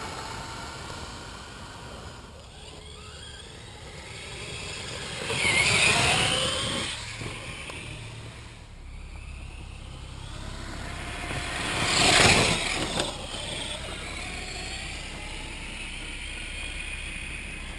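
Electric HPI Savage Flux RC truck's brushless motor whining as it speeds up and drives past, rising and falling in pitch. It is loudest twice, about six and twelve seconds in.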